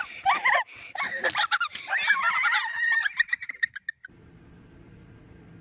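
Domestic fowl calling loudly and excitedly, several bending squawks followed by a quick run of short repeated calls that cuts off suddenly about four seconds in.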